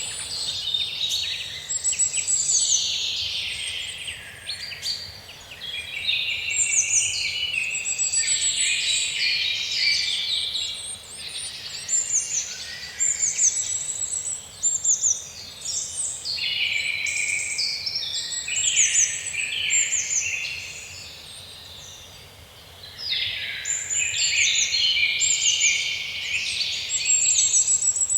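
A chorus of several songbirds singing over one another in woodland, rapid chirps and trills overlapping, with brief lulls about five seconds in and again a little past twenty seconds.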